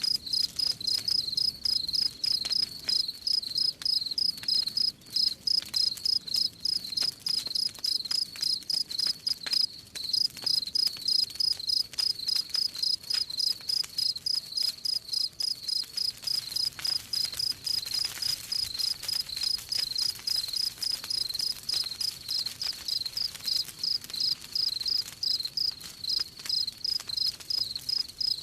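Crickets chirping steadily in an even rhythm, about four chirps a second, over the faint crackle of a campfire.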